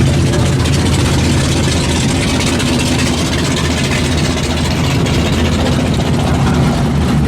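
Drag-race car engine idling steadily, with a deep, even low rumble and no revving.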